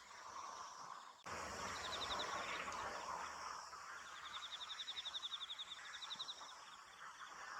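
Field ambience with insects chirping: a steady high-pitched drone, and twice a rapid even trill of about ten pulses a second, the second one lasting a couple of seconds.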